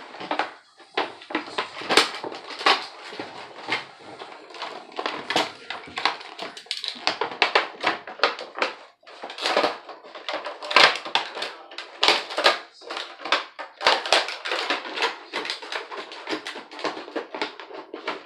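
Plastic and cardboard toy packaging being handled and torn open: dense, irregular crinkling and crackling with many sharp clicks.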